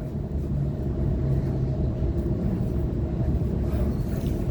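Electric suburban trains at a station: a steady low rumble with a steady hum.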